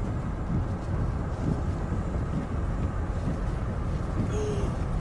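Storm wind roaring and buffeting the microphone in gusts, a dense low rumble, with a brief faint pitched sound about four seconds in.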